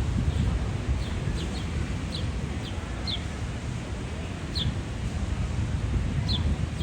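A small bird chirping: short, high, quickly falling notes, a dozen or so at uneven intervals, over a steady low rumble of wind on the microphone.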